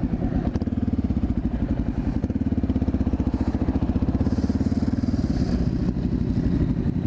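Honda XR650L's single-cylinder four-stroke engine idling steadily with an even, rapid pulsing.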